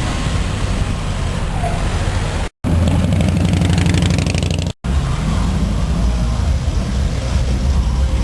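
Old cars' engines running as they cruise by in street traffic, a low steady engine sound with a rapid even pulse. It is cut off abruptly twice, about two and a half and nearly five seconds in.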